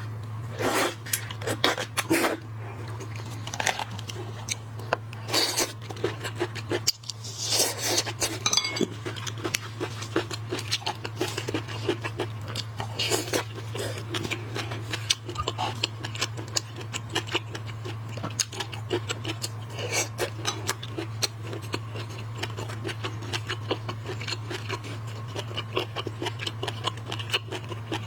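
Close-up eating sounds of shellfish: a run of crunches, cracks and wet clicks as shells are broken and the meat is chewed, with the odd clink of dishes, over a steady low hum.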